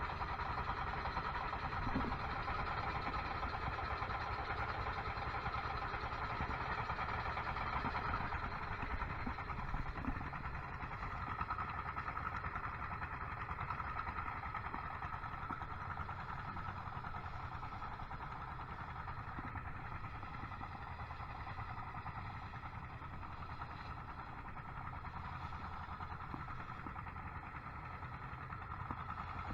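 Boat engine running steadily underway at cruising speed, an even drone with no change in pace.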